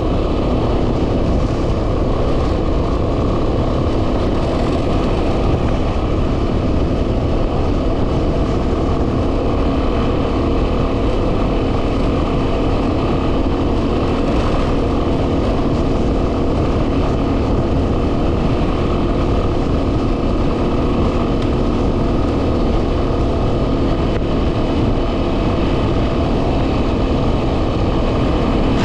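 Yamaha WR250R's single-cylinder engine running steadily as the motorcycle rides along a dirt track, under heavy wind buffeting on the microphone.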